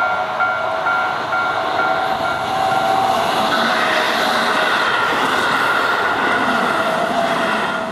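A Japanese railway level-crossing bell clangs about twice a second. From about three seconds in, a Keihan 10000-series electric train passes close by, and the loud, steady rush of its wheels on the rails drowns the bell out.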